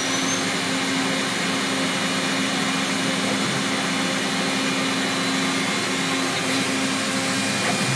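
1996 Makino A55 horizontal machining center running a program: a steady hum with an even hiss over it. The owner calls the machine almost as quiet as the day it was bought.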